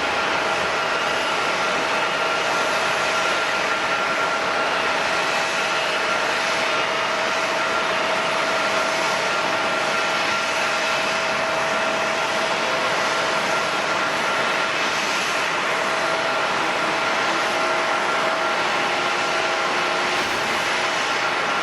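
Jet airliner engines running steadily: a constant rush of noise with a steady whine of several held tones, neither rising nor falling.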